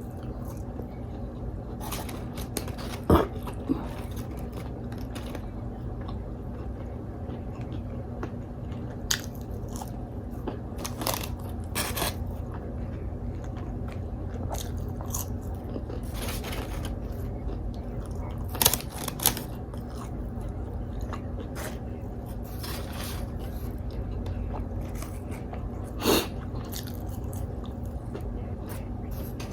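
Close-miked eating of Wingstop chicken wings: bites, chewing and scattered crunches, the sharpest about 3, 19 and 26 seconds in, over a steady low hum.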